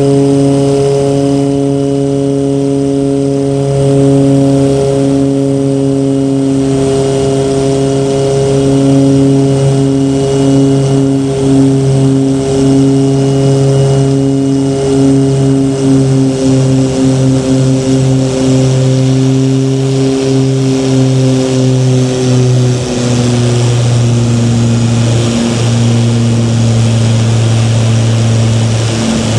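Light aircraft's propeller engine droning steadily, its tone wavering in a beat. About two thirds of the way through, the pitch drops a little as power is eased off.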